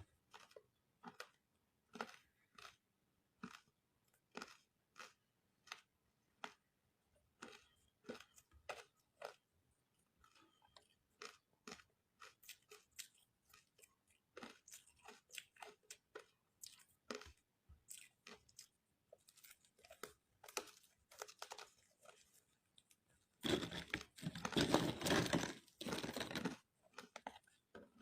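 Ice made with matcha being chewed close up: a run of short, crisp crunches with gaps between bites. About 23 seconds in comes a dense, louder stretch of crunching that lasts about three seconds.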